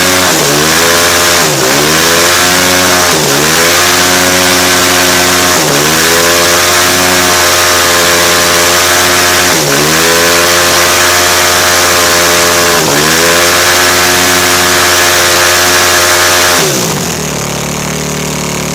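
KTM 450 SX-F single-cylinder four-stroke engine held at high revs during a burnout, the rear tyre spinning. The revs sag sharply and climb straight back about six times. Near the end it drops back to a steady fast idle.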